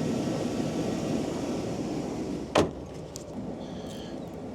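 Pickup truck engine idling, then a single sharp thud of a truck door shutting about two and a half seconds in, after which the running sounds quieter.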